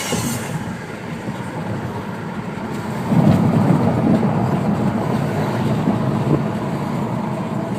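Turbocharged 2013 Dodge Dart's 1.4-litre MultiAir four-cylinder and tyre noise heard from inside the cabin while driving. The engine and road noise get louder about three seconds in and hold there.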